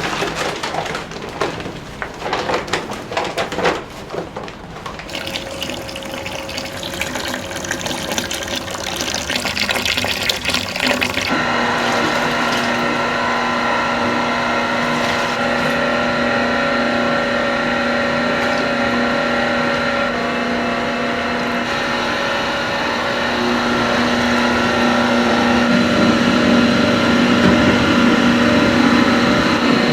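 Kitchen clatter of irregular knocks and clicks, then about eleven seconds in a machine starts running with a steady hum of several fixed tones, growing slightly louder later on.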